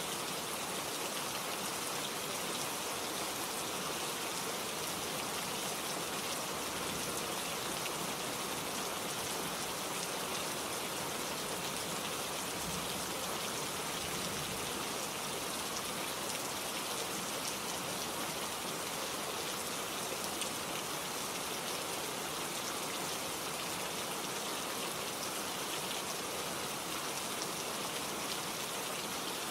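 Steady rain falling, with a dense patter of drops on leaves and surfaces.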